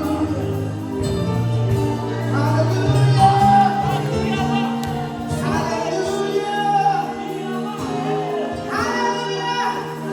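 Gospel worship music: singers with a choir over sustained keyboard chords and bass.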